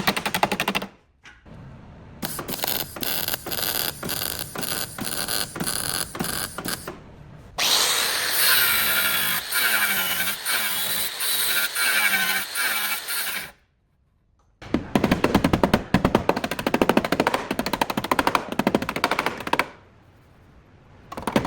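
Power tools at work on car body panels, with rapid rattling strikes and a whirring stretch in the middle. The sound runs in several short segments separated by abrupt cuts.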